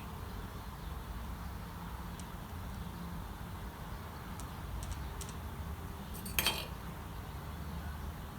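A single sharp metallic clink about six and a half seconds in, with a few faint light ticks, over a steady low hum of room noise.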